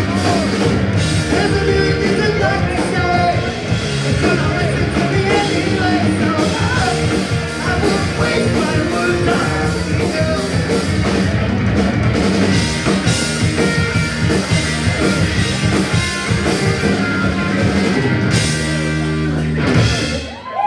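Punk rock band playing live: distorted electric guitars, bass, drum kit and shouted vocals, ending abruptly right at the end.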